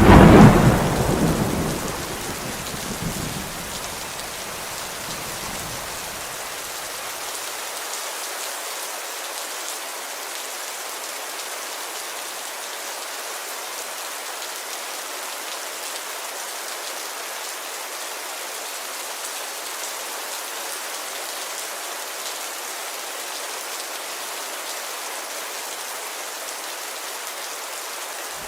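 Steady heavy rain pattering on a window glass, with a clap of thunder at the very start that rumbles away over the first few seconds.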